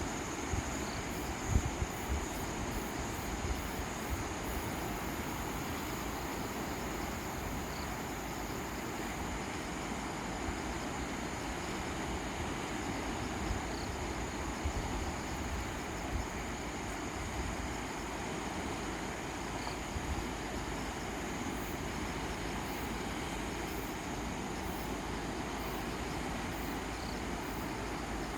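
Strong sea waves breaking, a steady wash of surf with a few low thuds, the loudest about a second and a half in.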